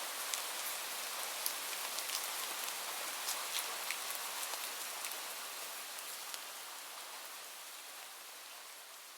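Steady rain falling, an even hiss with scattered drops ticking on a surface, slowly fading out over the second half.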